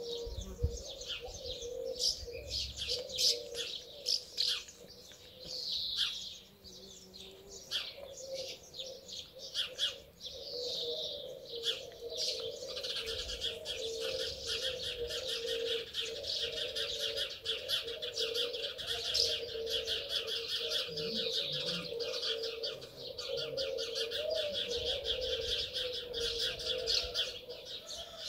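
Birds chirping and twittering, busier from about halfway through, over a steady low wavering drone.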